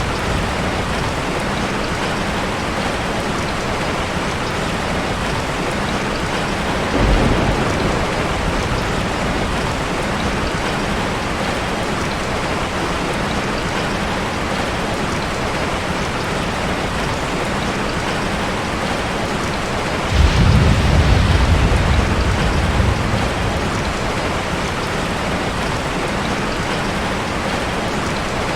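Steady rain falling in a continuous hiss, with a short low rumble of thunder about a quarter of the way through and a longer, louder rumble about two-thirds of the way through.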